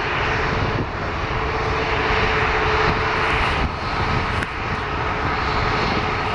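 Jet airliner engines running steadily at a distance, a constant rush with a steady whine; a higher whine comes in about halfway through.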